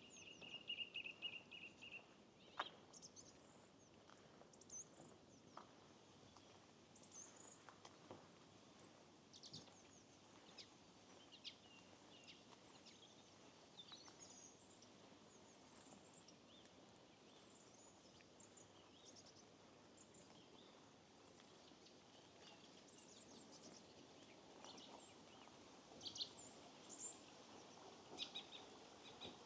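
Faint songbirds chirping and calling on and off, with a rapid trill in the first two seconds and a busier run of calls near the end, over a faint steady background hiss.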